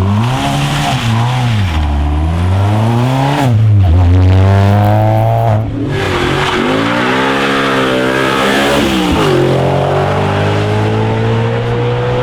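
Rally car engines at full throttle, pitch climbing and then dropping sharply again and again as the cars shift gears and lift off, with a steady rising rev near the end.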